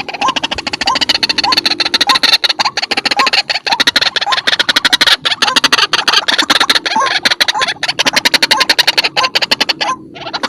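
White-breasted waterhen calling loudly: a fast run of harsh clicking notes with a short rising note repeated about every half second, breaking off briefly near the end. This is the repetitive call used as a trapping lure.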